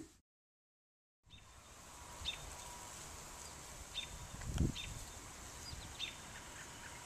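Faint outdoor ambience with several short, high bird chirps spaced a second or so apart. The sound drops out completely for about a second near the start, and there is a low thump about halfway through.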